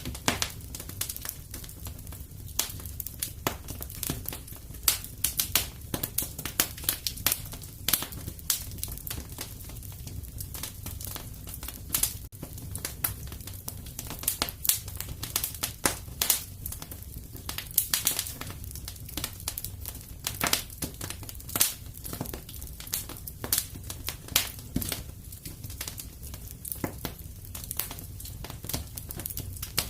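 Wood fire crackling in a fireplace: frequent irregular sharp pops and snaps over a low steady rumble of the flames.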